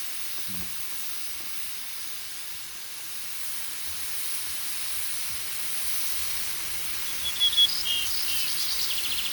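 Steady high-pitched hiss of outdoor natural ambience, with a bird chirping several times in the last two seconds.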